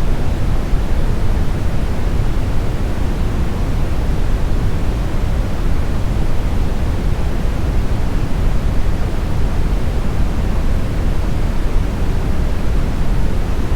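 Steady smoothed brown noise: a deep, even rushing hiss weighted toward the low end, with no change in level.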